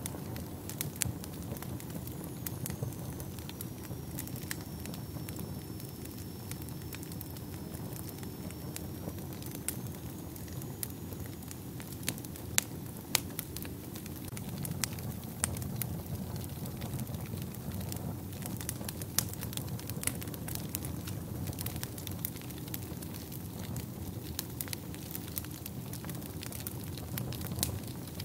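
Wood fire burning in a fireplace, with a steady low rumble of flames and frequent irregular crackles and pops.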